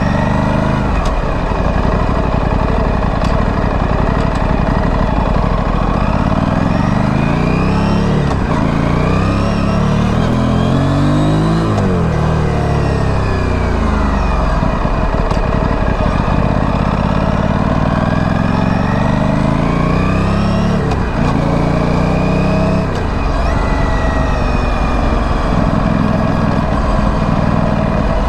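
Aprilia Tuono 457's parallel-twin engine through its stock exhaust while riding. The revs climb and fall several times, drop suddenly about three-quarters of the way through, then run steadier.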